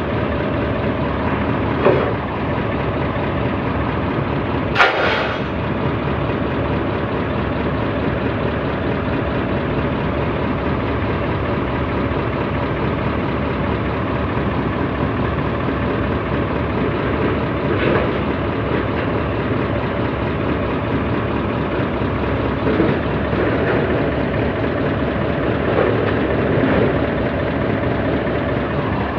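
Heavy diesel engine running steadily. A sharp knock comes about five seconds in, with lighter knocks near two and eighteen seconds.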